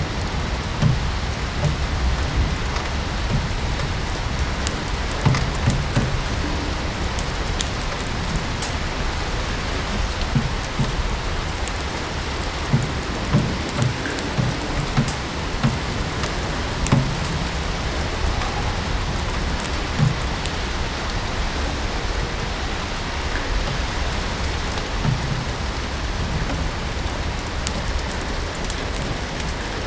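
Steady rain falling, mixed with a wood fire crackling in a fireplace, with scattered sharp pops and soft low knocks over the even hiss.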